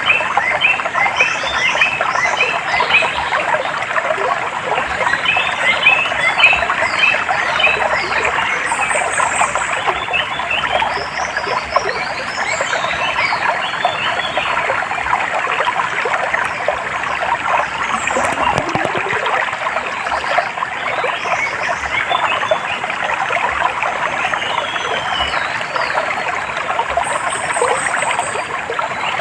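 Water trickling and babbling steadily over stones, with small birds chirping over it in quick runs of short notes and a few high thin calls.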